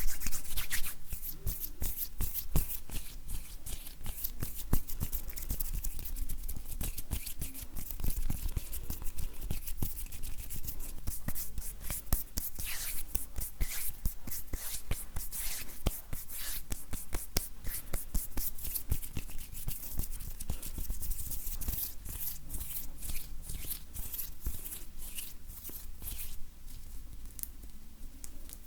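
Dry bare hands rubbing and touching close to the microphone: skin rustling, with many small crackles and clicks.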